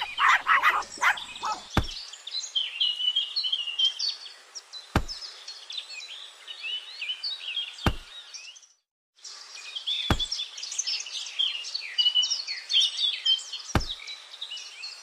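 Many small birds chirping and twittering without pause, with five sharp clicks spread through and a brief half-second dropout of all sound a little past the middle.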